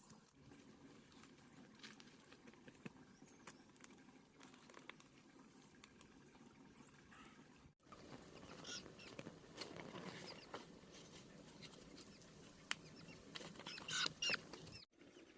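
Faint rustling and light pattering, with a few scattered clicks and short high chirps, broken by two abrupt cuts.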